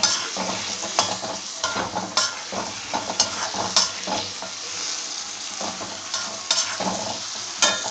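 Tomatoes and spices frying in ghee in an iron kadai, sizzling steadily, with a spoon scraping and clicking against the pan at irregular moments as the mixture is stirred.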